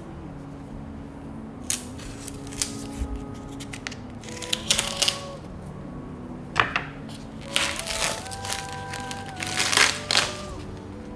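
Soft instrumental background music with held notes, over a series of crinkling, rustling handling noises and light clicks from food preparation, loudest near the end.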